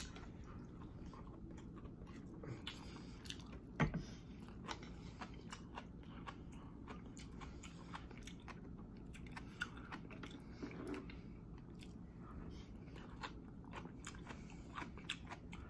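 Close-miked chewing of food, with faint wet mouth clicks and crunches from sliced kimchi. One sharper click about four seconds in.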